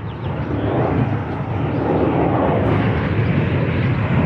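Twin electric ducted fans of an XK A170 Boeing 787 RC plane in flight: a steady rushing noise that rises and falls slightly, with no clear whine.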